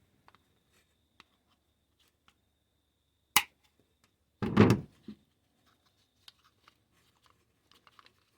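Excess starter-rope end being trimmed: a single sharp snip a little over three seconds in, then a dull thump about a second later, with faint handling clicks and ticks.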